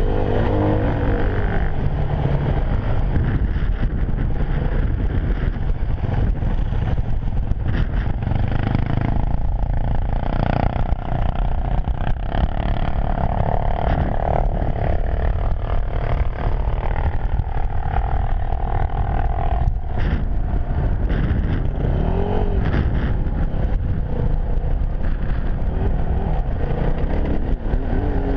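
Yamaha WR250F enduro motorcycle's single-cylinder four-stroke engine running under load over rough ground, the revs rising and falling, with heavy wind rumble on the microphone.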